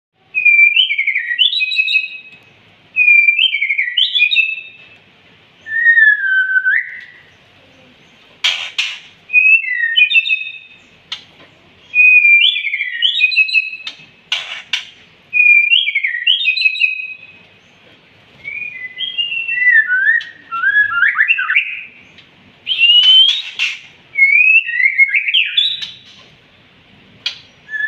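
White-rumped shama (murai batu) singing: a string of short, varied whistled phrases that glide up and down, repeated every two seconds or so. Two sharp clicks are heard in the middle.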